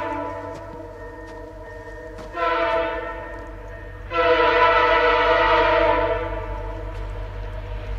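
Diesel locomotive's multi-chime air horn sounding: the tail of one blast fades out, then a short blast and a longer, louder blast follow, each sounding as one chord. A low train rumble grows near the end.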